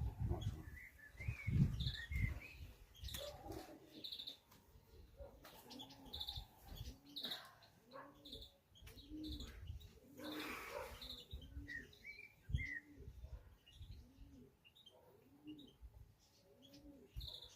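Racing pigeons cooing at the loft, low arched coos repeating about once a second, with small birds chirping high over them. A short rush of noise comes about ten seconds in.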